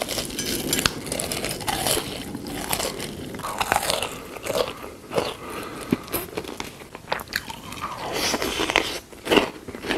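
Close-miked eating sounds: crunchy biting and chewing, with irregular crunches and small mouth clicks.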